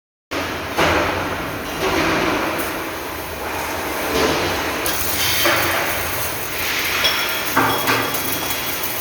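Metal fabrication shop noise: steel knocking and clanking against a steady noisy din, starting abruptly just after the beginning, with a few sharper knocks about a second in and again near the end.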